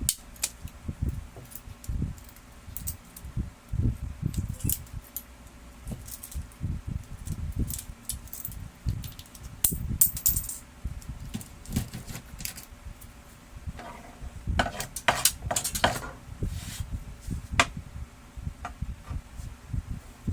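Hands working on the printer: irregular dull knocks and handling bumps, with sharp clicks and clatter of small hard parts, in clusters about halfway through and again a few seconds later.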